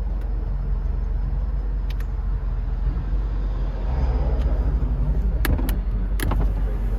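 1988 Mercedes-Benz 560SL's 5.6-litre V8 running with a steady low hum, growing louder about four seconds in. A few sharp clicks come near the end.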